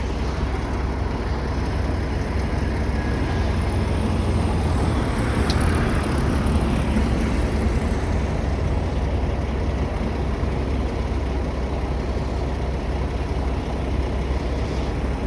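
Cars passing on a snowy road: a steady rumble of engines and tyres, swelling as one vehicle goes by about five seconds in.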